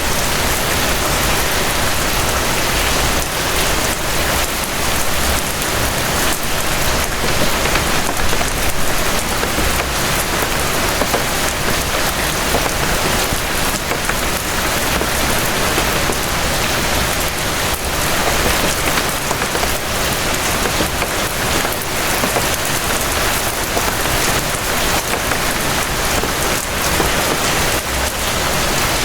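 Steady, dense rain falling, with close drops pattering on a surface and no let-up.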